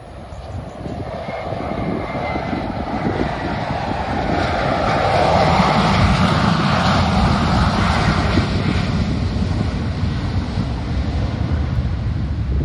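Jet airliner flying over on landing approach. Its engine noise swells to a peak around the middle and then eases slowly, over a low rumble of wind on the microphone.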